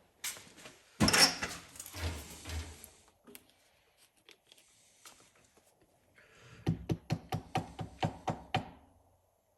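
Workshop handling noise: a loud clatter or scrape about a second in, then a quick, even run of about ten knocks, some five a second, near the end.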